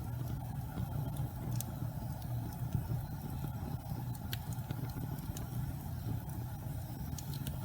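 Wood fire burning in a fireplace: a steady low rumble of the flames with a few scattered sharp crackles and pops.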